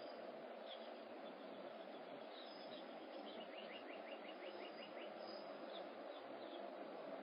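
Faint bird chirps over a steady outdoor background hiss. A quick run of about eight short, falling chirps comes around the middle.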